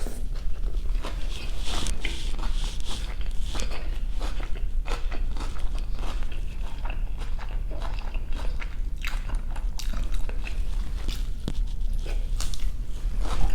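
A person chewing and biting food close to the microphone: irregular wet mouth clicks and crunches throughout, over a steady low hum.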